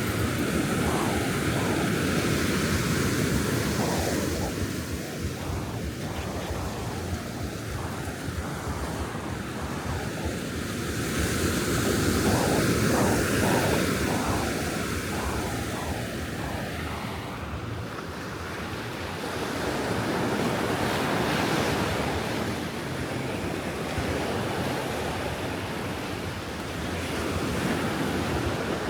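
Ocean surf breaking and washing onto a sandy beach, a steady rush that swells and eases every several seconds as waves come in, with some wind on the microphone.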